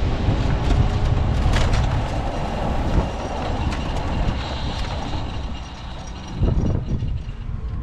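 Rushing wind and rattling rolling noise from a Honda NSR250R racing motorcycle coasting with no clear engine note, its two-stroke V-twin having seized. The noise eases somewhat after the middle as the bike slows.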